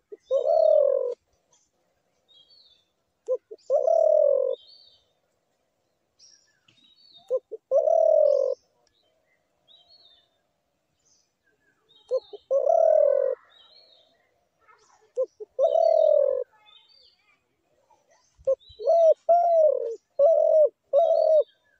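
Dove cooing: a repeated phrase of a short note and a longer coo, about every three to four seconds, then four quicker coos in a row near the end. Faint high chirps of other small birds sound in the background.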